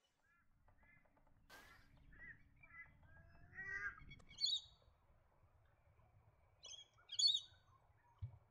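Birds calling: scattered short chirps, the loudest two high-pitched calls about four and seven seconds in.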